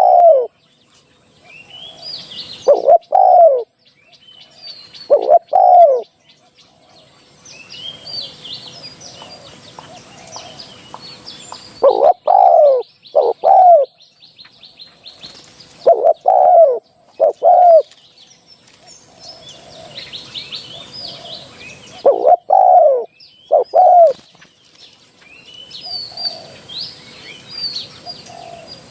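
Spotted dove cooing: loud phrases of two or three arching coos, repeated every few seconds, a decoy call for luring wild spotted doves. Small birds chirp faintly in the gaps.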